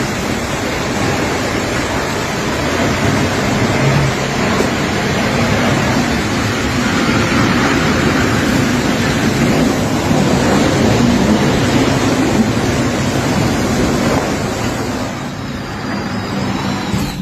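Loud, steady rushing of tornado-force wind, buffeting the microphone; it eases a little near the end.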